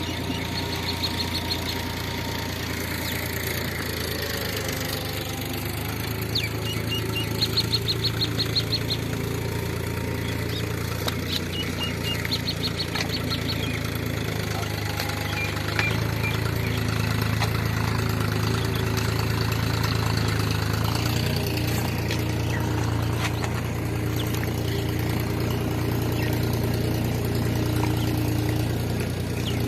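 Diesel engine of heavy farm machinery running steadily at low revs; about halfway through it gets louder and its note rises a little. Three short, rapid runs of high chirps sound over it in the first half.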